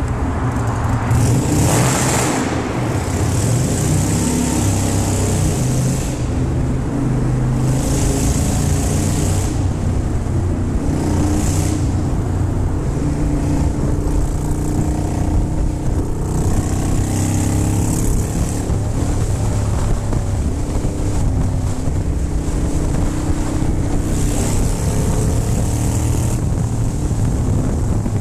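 Motorcycle engine running while riding in traffic, with bursts of rushing air and road hiss coming and going every few seconds.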